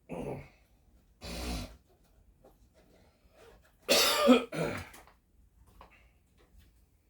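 A person coughing and clearing the throat in four short bursts, the loudest two close together about four seconds in.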